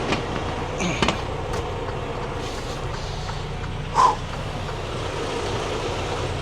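Truck engine idling steadily, heard from inside the cab. A few light clicks come about a second in, and a short high-pitched sound about four seconds in.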